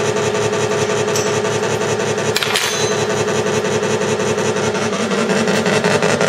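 Electronic engine sound generator in a 1/6-scale Tiger tank model, playing a simulated tank engine running steadily through a small speaker with no deep bass. There is a brief crackle about two and a half seconds in, and the engine note grows a little louder near the end.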